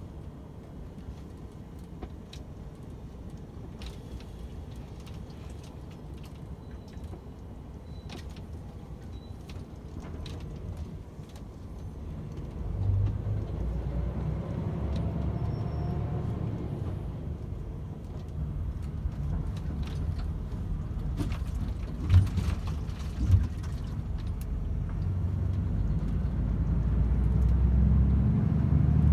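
DAF XF 510 truck's diesel engine and road noise: a steady low rumble that grows louder from about halfway through and again near the end. Two sharp thumps come a little over a second apart in the last third.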